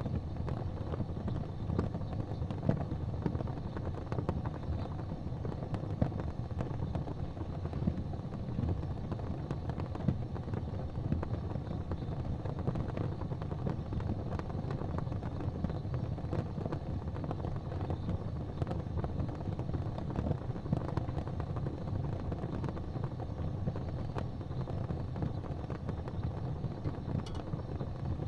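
Fire burning in a fireplace: a steady low rumble of the flames with frequent small crackles and a few louder pops.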